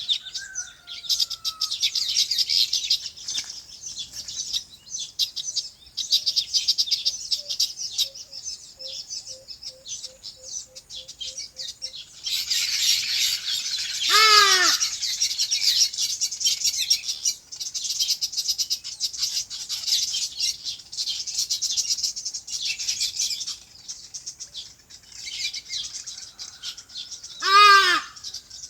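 Many small birds chirping in a dense, continuous chatter, with two louder, short harsh calls from a larger bird about halfway through and near the end.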